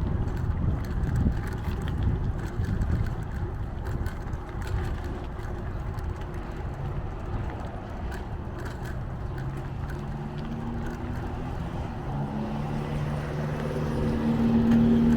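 Wind buffeting the microphone of a moving bicycle, a low rumble. From about ten seconds in, a steady low hum of a few held tones builds up and grows louder toward the end.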